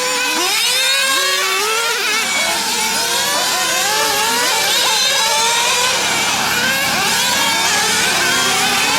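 Several 1/8-scale nitro RC GT cars running on a track, their small two-stroke glow engines revving up and falling back in pitch again and again as they accelerate and slow, the engine notes overlapping one another.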